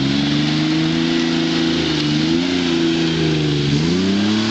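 Off-road vehicle's engine revving hard and held at high revs as it tries to climb a slippery mud hill. It dips briefly near the end, then picks up again.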